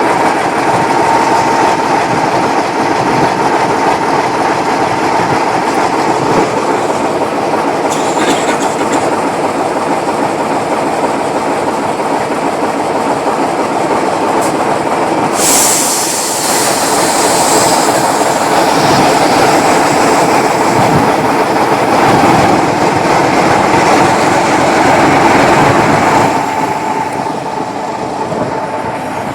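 A heritage railway train running along the track: a loud, steady rail rumble with a held tone, and a higher hiss or squeal for a couple of seconds about halfway through. It grows quieter near the end.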